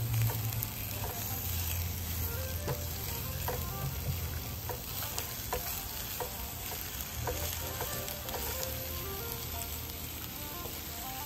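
Sliced onions and bell peppers sizzling in hot oil in a non-stick pan while being stirred with a silicone spatula, with scattered small clicks and pops. A low steady hum runs underneath.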